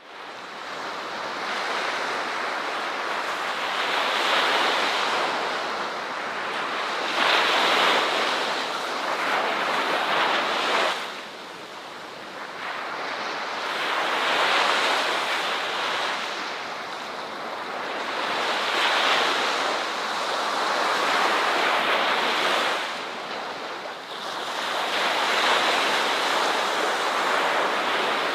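Ocean surf: waves breaking and washing in, the rush swelling and falling away every few seconds.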